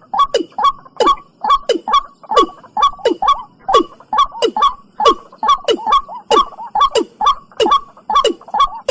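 Watercock calling: a steady, rapid series of hollow notes, each starting with a sharp click and dropping in pitch, about two to three a second.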